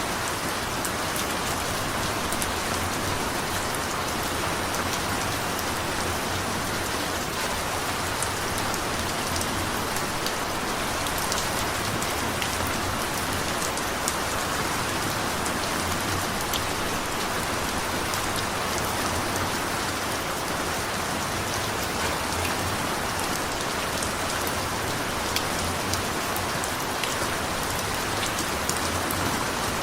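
Steady rain falling on a hard surface, an even hiss sprinkled with sharp individual drop ticks.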